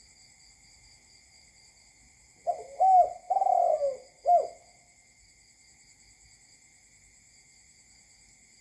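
A spotted dove gives one cooing phrase of about four notes lasting some two seconds: a short note, an arched note, a longer drawn-out note and a final short note. Insects keep up a steady high buzzing throughout.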